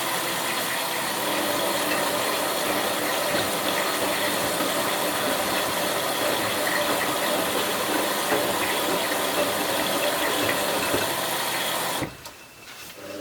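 Bauknecht WA 7778 W washing machine tumbling a load of towels in the wash: the brushed drum motor runs with a mechanical whirr and water sloshing, then stops abruptly about 12 seconds in. The drum bearing is already starting to wear, though not yet badly.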